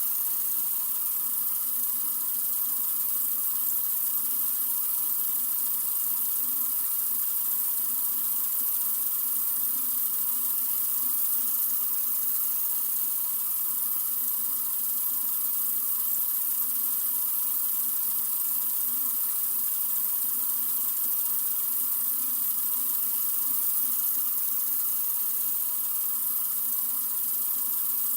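Sink faucet running in a steady, unbroken stream: an even, bright hiss of flowing water that does not change.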